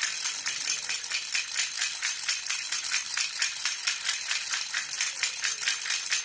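Baby rattle (jhunjhuna) shaken steadily in a fast, even rhythm, giving a bright, high jingle.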